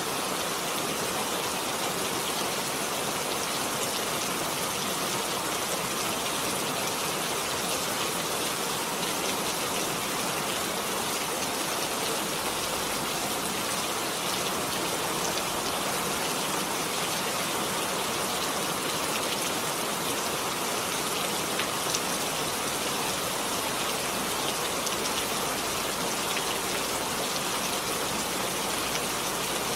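Heavy rain falling steadily, a dense even hiss of drops with fine patter on surfaces.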